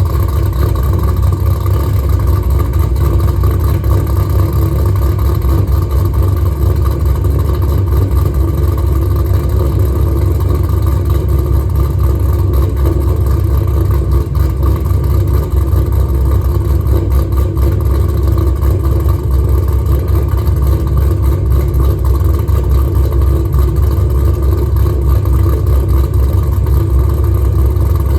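2013 Camaro SS 6.2-litre V8 with an aftermarket camshaft, idling steadily after a cold start through longtube headers, an X-pipe and Spintech mufflers with no catalytic converters.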